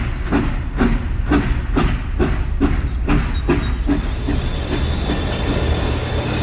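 Train wheels clicking over rail joints about two to three times a second, the clicks spreading out as it slows. About three and a half seconds in, they give way to a steady hiss with a thin high squeal.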